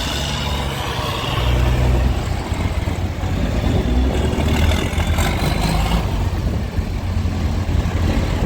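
Tractor engine running steadily with a deep, low rumble.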